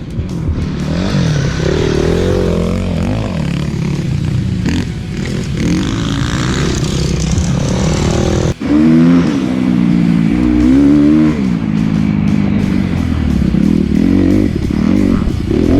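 Kawasaki KX250F dirt bike's 250cc four-stroke single-cylinder engine revving up and down as it is ridden, its pitch rising and falling with the throttle. The sound drops out sharply for an instant about eight and a half seconds in.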